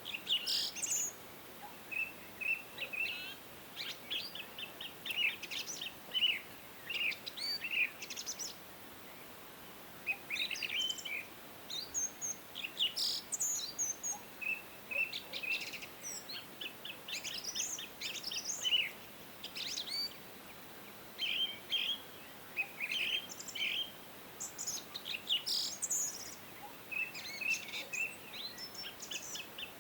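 Several songbirds singing and chirping: short high chirps, quick trills and rapid runs of notes that overlap and come in bursts every second or so, over a faint steady hiss.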